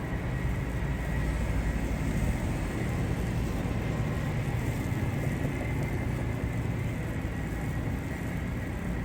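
Steady low rumble of road traffic on a city street, with no sudden sounds.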